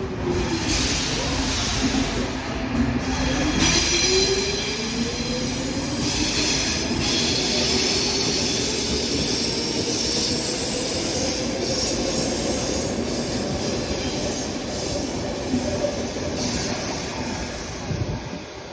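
Train running on the rails, with high wheel squeal and a steady rumble. A mid-pitched motor-like tone rises in pitch a few seconds in and then holds.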